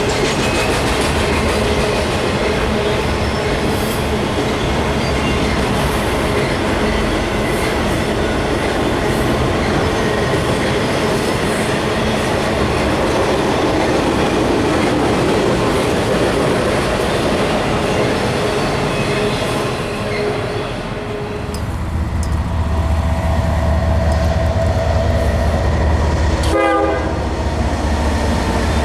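Train rolling past close by, its cars running and clacking over the rail joints. About two-thirds of the way through, a deep low rumble sets in and runs on to the end.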